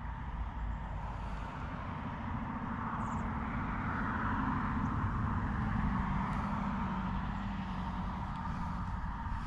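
A vehicle passing by: a steady drone that builds to its loudest about halfway through and then fades.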